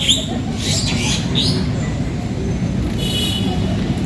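Several birds calling, with a run of short, sharp sweeping calls in the first second and a half and a buzzy call about three seconds in, over a steady low hum of city traffic.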